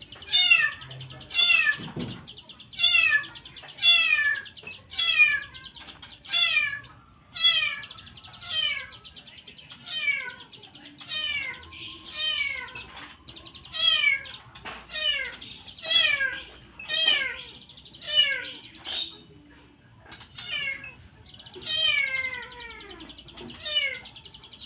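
White-eye (pleci) singing a run of loud downslurred calls, about one a second, over a continuous high twitter, with a brief lull about two-thirds of the way through.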